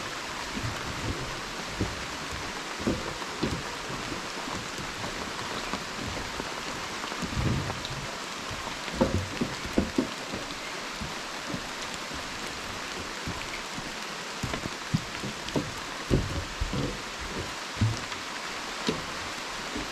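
Steady hiss of rain and rushing waterfall water. Irregular dull low thumps sound through it, several bunched about halfway through and again later on.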